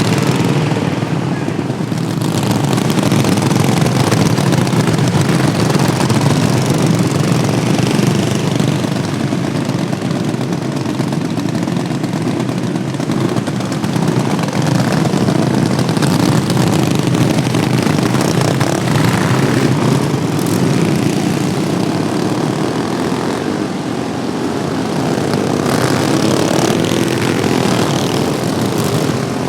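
Engines of modified Wheel Horse racing lawn tractors running together under racing load, a loud, steady engine drone with no pauses.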